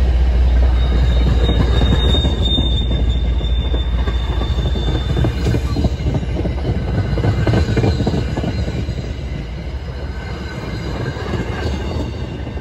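MBTA commuter rail train passing close by: passenger coaches rolling past with steady wheel-on-rail noise. The diesel locomotive's low rumble eases in the first couple of seconds, and a thin, high wheel squeal runs from about 1.5 to 5 seconds in.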